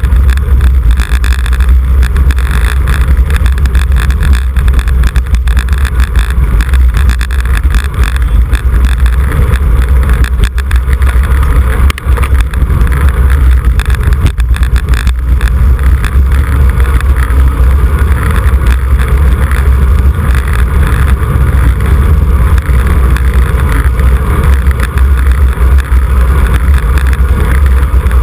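Loud, steady wind roar buffeting a racing cyclist's on-board camera microphone, with a heavy low rumble throughout.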